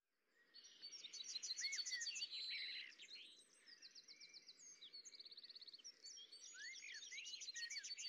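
Faint songbird chirping that fades in at the start: rapid high trills mixed with short whistled notes that rise and fall.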